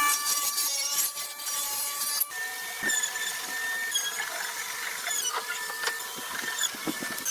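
Workshop machinery running with a steady whine and a rattling, crackling noise. About two seconds in it changes abruptly to a different machine hum with light ticks.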